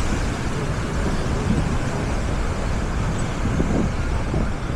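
Steady beach ambience: a loud, even rush of wind on the microphone and surf, heaviest in the low end, with faint distant voices of the crowd.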